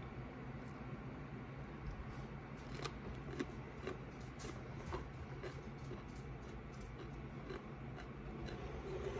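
Close-up chewing of crunchy snack food: a run of crisp crunches about twice a second, starting about three seconds in, over a steady low hum.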